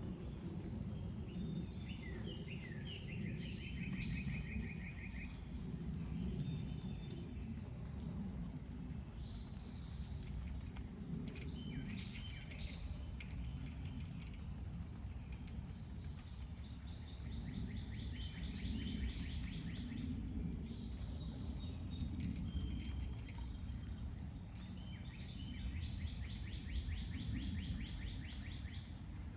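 Wild backyard birds chirping and singing: several rapid, even trills lasting a second or two each, recurring through the stretch, mixed with short chirps, over a steady low background rumble.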